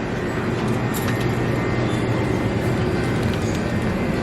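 Steady low mechanical rumble with a faint underlying hum, even throughout with no distinct events.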